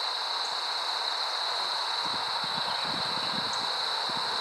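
Steady high-pitched insect drone over an even hiss, with soft rustling and knocking from handling about halfway through.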